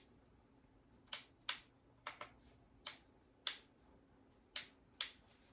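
About eight short, sharp clicks at uneven intervals, some in quick pairs, with quiet between them.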